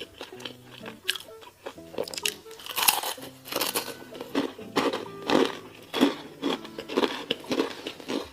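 Close-up crunching bites and chewing of crisp food, many crunches in quick succession, loudest from about three seconds in, over soft background music.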